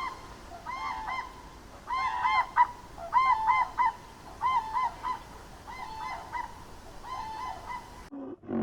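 Geese honking in repeated short groups of two or three calls, about one group a second. The calls cut off abruptly about eight seconds in, and a deeper animal call begins right at the end.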